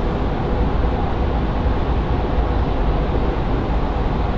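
Tyre and wind noise inside a Tesla Model 3's cabin at about 100 km/h in a tunnel: a steady, heavy rumble without breaks, awfully loud.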